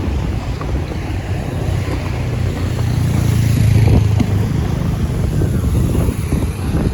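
Steady low vehicle rumble with wind buffeting the microphone, swelling about three to four seconds in.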